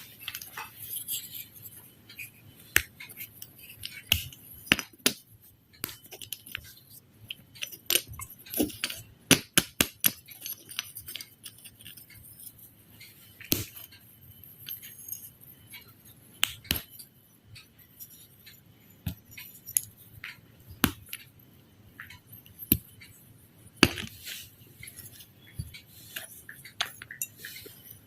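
Sharp clicks and light taps of small hard objects, coming at irregular intervals, with a quick flurry of them about a third of the way through.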